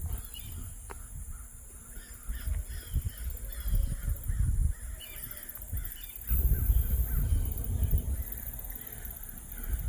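Birds calling, including cawing like crows, over an intermittent low rumble that swells about six seconds in.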